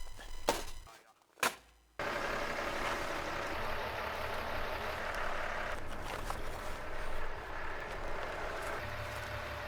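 Tractor engine running steadily, after a couple of sharp clicks and a brief drop-out about a second in.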